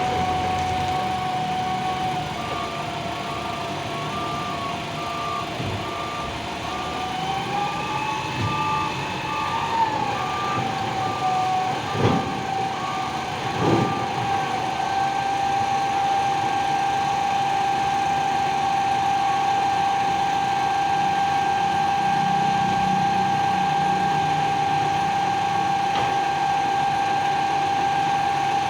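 Heavy vehicle running with a steady whine that swells and rises briefly partway through, while a reversing beeper sounds about once a second for the first half. Two sharp knocks come near the middle.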